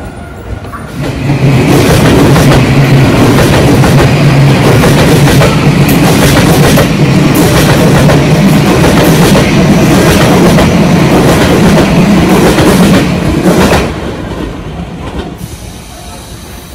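Tobu 50000-series electric train running close past, its wheels clicking over the rail joints. The sound swells about a second in, stays loud, then drops away sharply at about fourteen seconds as the last car goes by.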